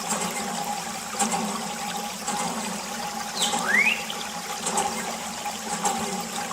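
Water from a miniature water pump running and splashing, with a steady hum underneath and a short rising squeak about halfway through.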